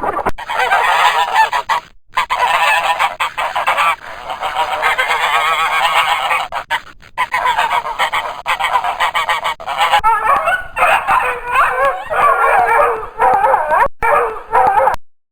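A flock of geese honking, many calls overlapping at once, broken by a few abrupt cuts between clips.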